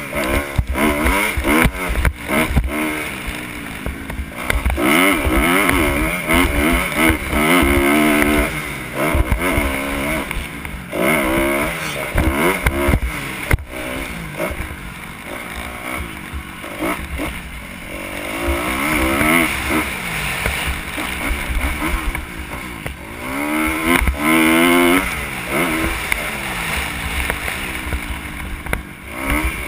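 Kawasaki KX 250 motocross bike engine revving hard, its pitch rising and falling over and over as the rider accelerates, shifts and backs off for corners, with wind rushing over a helmet-mounted microphone. A sharp knock about halfway through.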